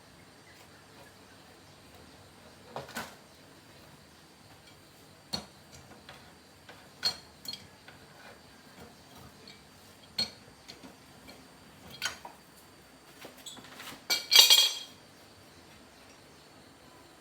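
Metal tools and parts clinking and knocking as they are handled, about a dozen separate strikes, with a short burst of clattering near the end.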